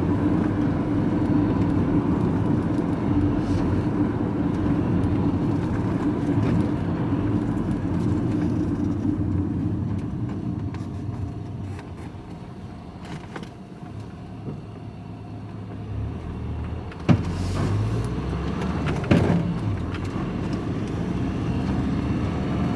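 Road vehicle running on the move, a steady engine hum and road rumble that eases off about halfway through and then builds again. Two sharp clicks come about two seconds apart in the last third.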